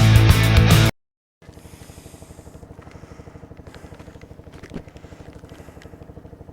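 Rock music cuts off about a second in; after a brief gap, a small motorcycle engine idles steadily with an even pulse.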